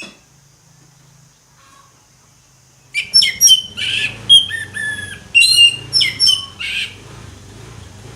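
Orange-headed thrush singing. About three seconds in it starts a loud burst of quick, varied whistled phrases, which lasts about four seconds and then stops.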